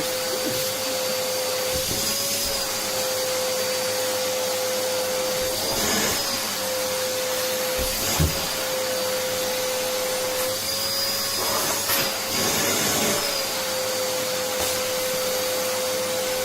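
Vacuum cleaner running steadily: a constant motor whine over airflow hiss, its pitch wavering briefly several times, with a couple of light knocks.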